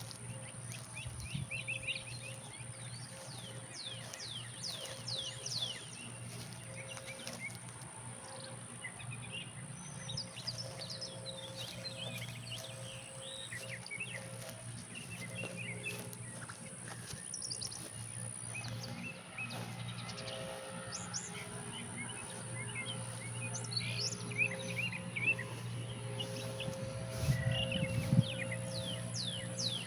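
Wild birds singing outdoors: runs of quick down-slurred chirps, busiest in the first few seconds and again near the end, over a steady low hum.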